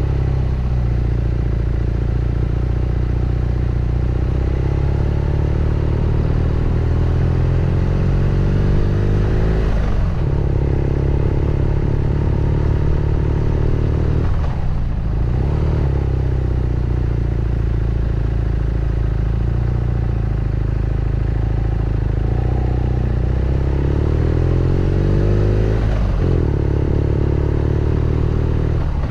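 BMW R nineT Scrambler's 1170 cc boxer twin running under load on the move, its note climbing slowly as it pulls, then dropping sharply and recovering three times as the throttle is shut or a gear changed.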